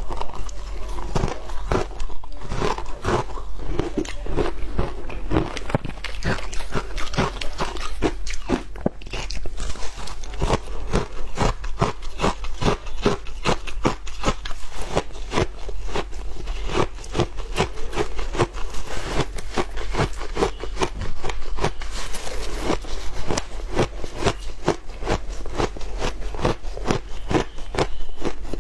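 Shaved ice being chewed close to the microphone: a steady, continuous run of crisp crunches, several a second.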